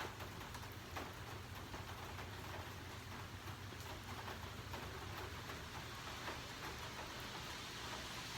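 Steady rain falling, with a tree frog calling faintly.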